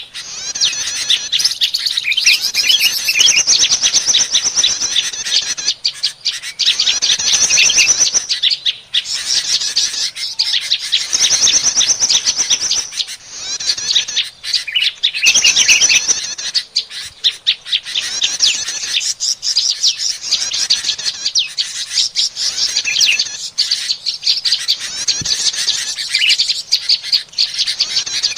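Prinia (prenjak) calls from a bird-lure recording: loud, rapid, high chirping trills in runs of a few seconds with short breaks.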